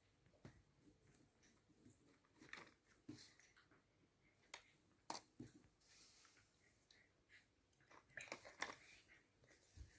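Faint, scattered clicks and taps of hand work with painting tools. The louder ones come about five seconds in and in a cluster near the end.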